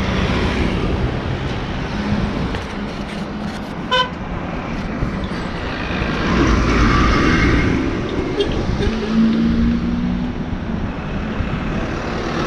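Road traffic passing, with engines running and a short horn beep about four seconds in; a vehicle passes close by in the middle of the stretch.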